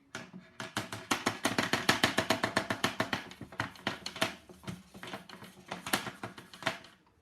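Hotpoint Aquarius WML540 washing machine winding down at the end of its spin: rapid clicking and rattling, several a second, that thins out and slows over the seconds.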